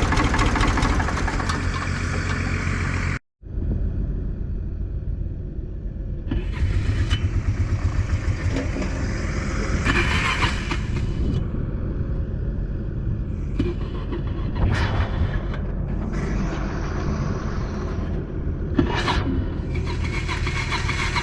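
Large farm machine engine running steadily at a low idle, with a brief break about three seconds in.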